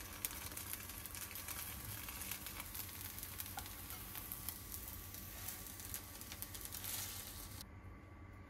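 Kimchi pancake sizzling and crackling as it fries in oil in a nonstick pan, with a spatula scraping and pressing it in the pan. Near the end the sizzle cuts off abruptly to a quieter sound.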